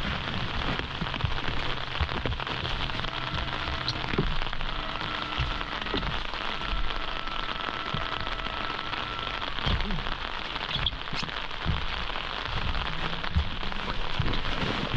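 Steady rain pattering, with a few dull knocks now and then.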